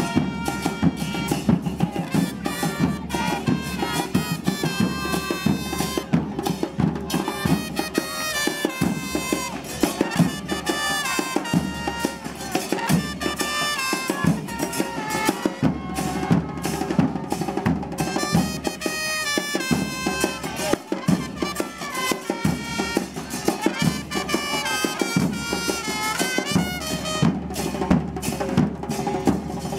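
Murga music: drums beating steadily under a stepping wind-instrument melody.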